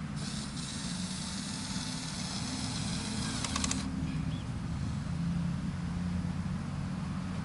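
Truck diesel engine idling with a steady low rumble. Just after the start a high hiss sets in, lasts about three and a half seconds and ends in a few sharp clicks.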